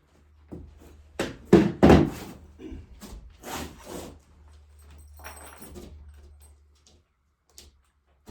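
A series of heavy knocks and thumps, the loudest a second or two in, followed by lighter knocks and small rattling clicks over a faint low hum.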